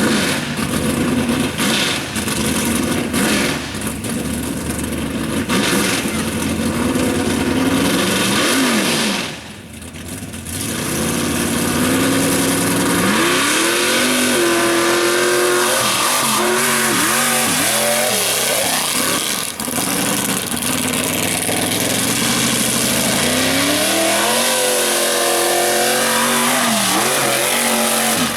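Mega mud truck's V8 engine running hard under heavy throttle. In the second half it revs up and drops back again and again, the pitch climbing and falling with each burst of throttle.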